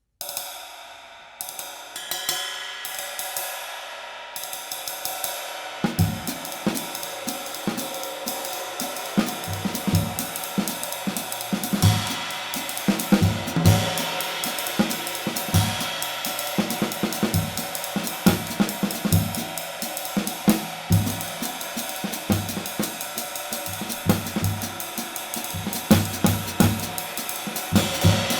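Handmade 20-inch medium light B20 bronze ride cymbal, struck alone a few times and left ringing. From about six seconds in, it is played in a groove on a drum kit, with bass drum and snare hits under the ride's wash.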